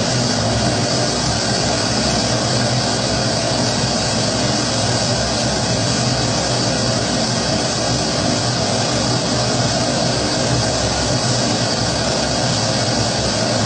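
Pressurised kerosene primus stove burner burning with a steady, unbroken rushing hiss.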